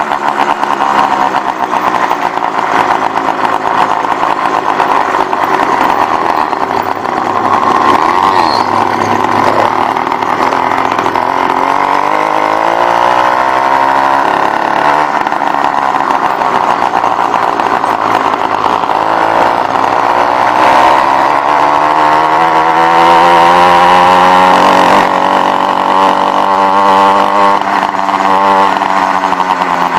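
Motorized bicycle's small two-stroke engine running, its pitch sinking and then climbing again as it slows and speeds up, loudest about three quarters of the way through.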